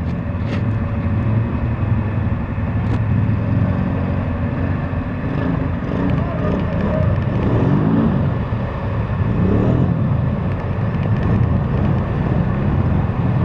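Arctic Cat 650i ATV engine running hard under load, with the revs climbing and falling twice in the second half.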